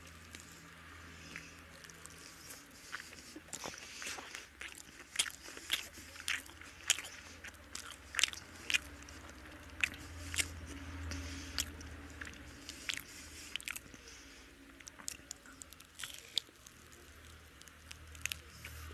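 Close-miked biting and chewing of a crisp coriander-leaf fritter (dhone patar bora, whole coriander leaves fried in gram-flour batter): many short, sharp crunches in irregular runs.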